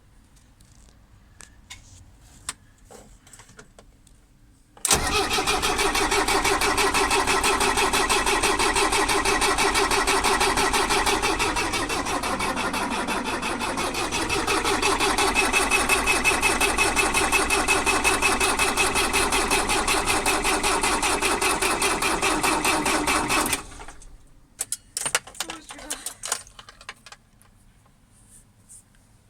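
Starter motor cranking a Mercedes 609D's diesel engine with a fast, even rhythm for about nineteen seconds, then stopping suddenly without the engine catching: the van won't start. A few light clicks come before and after the cranking.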